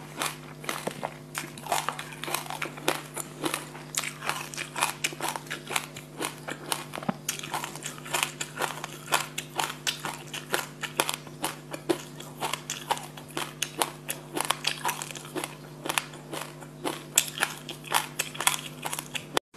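Chewing a mouthful of sesame seeds mixed with passion fruit pulp: a dense run of crisp crunches and clicks, several a second, over a steady low hum. It stops abruptly just before the end.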